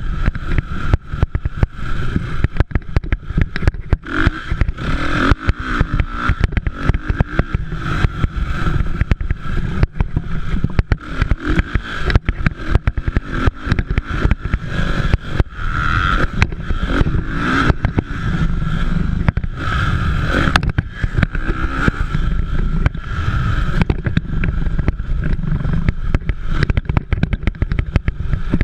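Motocross motorcycles running and revving on the track, their engines heard continuously with a lot of crackle.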